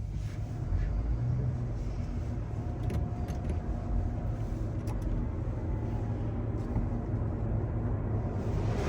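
Car engine idling with a steady low rumble and a faint hum, with a few light clicks in the middle.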